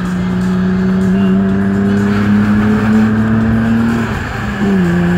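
BMW E34 straight-six engine heard from inside the cabin under hard acceleration, its drone slowly rising in pitch. About four seconds in it breaks off briefly for a gear change, then comes back lower and pulls on steadily.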